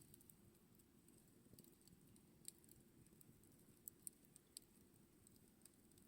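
Faint campfire crackling: a few sharp pops and snaps, scattered irregularly, over a low steady rumble of flame.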